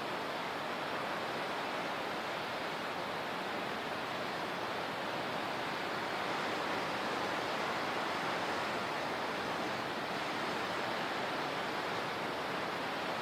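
Steady rushing of water, an even hiss with no separate splashes, swelling slightly about halfway through.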